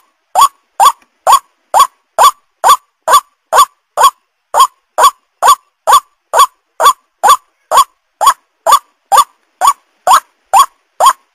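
White-breasted waterhen (ruak-ruak) lure call: short, loud notes rising in pitch, repeated evenly about two times a second.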